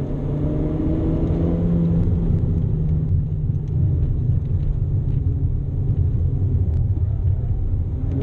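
Renault Clio RS engine heard from inside the cabin while lapping a race track, its note rising in pitch over the first two seconds as it accelerates, then dropping back and running steadier.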